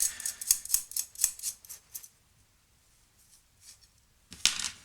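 Small metal hardware, washers and nuts, clinking and rattling as they are handled. There is a quick run of clinks for about two seconds, then a short clatter near the end.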